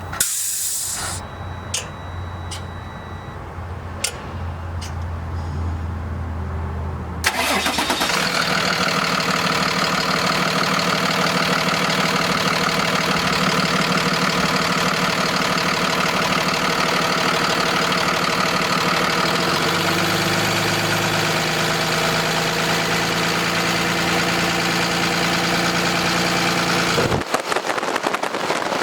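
Freightliner M2 dump truck's diesel engine starting up about seven seconds in and then running steadily at idle. Its note shifts around twenty seconds in, and it cuts off abruptly near the end. Before it starts there is only a low hum and a few clicks.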